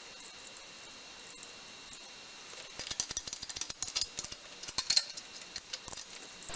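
Rapid, irregular small metallic clicks and clinks, starting about two and a half seconds in and continuing, over a faint hiss.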